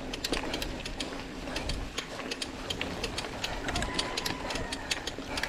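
Mountain bike riding over a rough, rocky trail: rapid, irregular clicking and rattling from the drivetrain and frame, over a low rumble.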